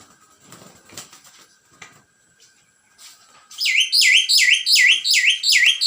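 Myna chick calling: after a few seconds of faint rustling, a loud rapid series of repeated shrill calls, each falling in pitch, about three a second.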